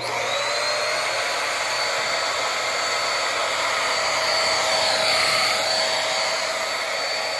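Corded Nequare vacuum cleaner with its roller brush head switched on. The motor whines up to speed within a fraction of a second, then runs steadily with a high whine.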